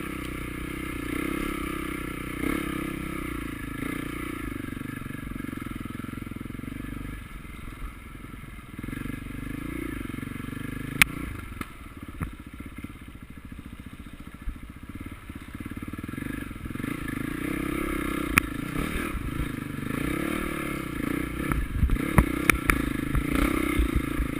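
Motocross motorcycle engines revving up and easing off, their pitch wavering. A few sharp knocks cut through about eleven seconds in, and a cluster of clatter comes near the end.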